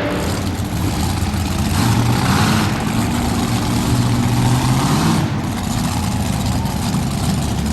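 Modified pulling tractor's engines running at lower revs after a pull, their pitch rising and falling, with the hiss easing off about five seconds in.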